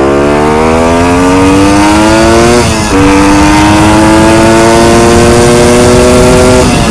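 Kawasaki F11 250 two-stroke motorcycle engine accelerating under way. The revs climb, drop briefly at an upshift about two and a half seconds in, climb again, and dip at another shift near the end.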